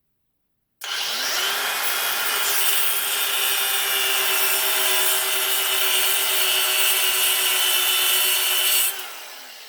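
Electric power cutting tool spinning up with a rising whine and cutting into a brass and copper water heater valve assembly, running at a steady pitch for about eight seconds before switching off and winding down near the end.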